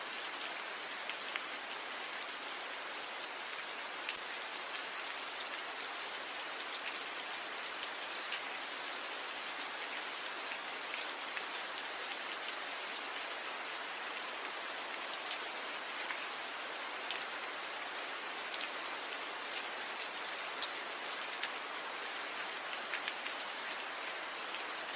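Steady rain falling on tree leaves: a constant hiss with scattered individual drop ticks.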